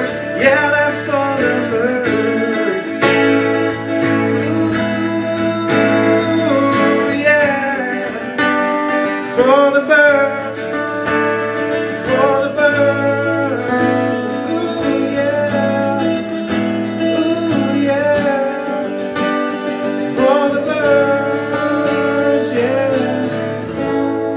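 Acoustic guitar music: the instrumental ending of the song, strumming under a lead line of bent and wavering notes.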